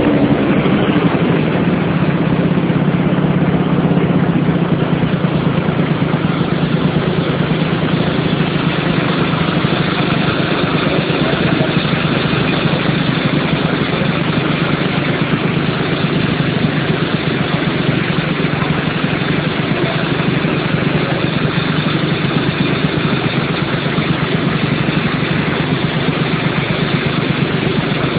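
Motorcycle engine running steadily at an even, low pitch, like an idle, after easing down in pitch in the first few seconds.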